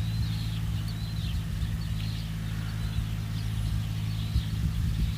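Engine running at a steady speed, a continuous low hum, with small birds chirping repeatedly over it.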